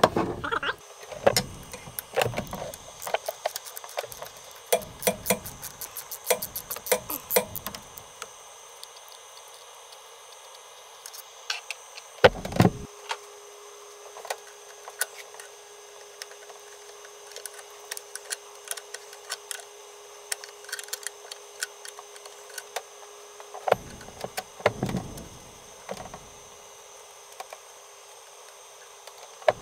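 Hand tools clinking and clicking against metal during work on a car engine, with a quick even run of clicks in the first third. A single loud knock comes about twelve seconds in, followed by a steady hum lasting about ten seconds.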